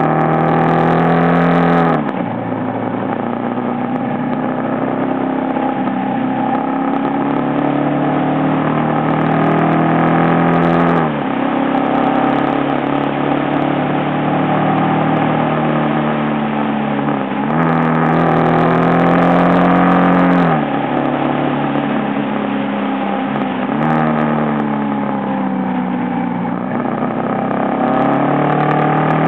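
Aprilia Pegaso's single-cylinder motorcycle engine running under way, its note climbing steadily and dropping sharply about four times before climbing again.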